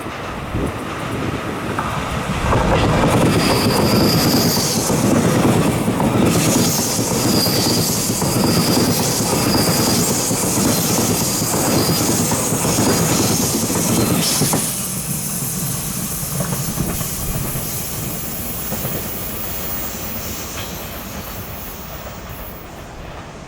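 Taiwan Railway electric passenger train passing close by, its wheels clattering over the rails with brief high-pitched wheel squeal. It is loudest for about twelve seconds from about two seconds in, then fades steadily as it runs away.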